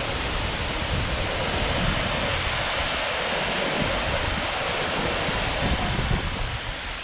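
Rushing water falling from a dam and flowing on as a river, a steady roar with gusts of wind buffeting the microphone, easing off near the end.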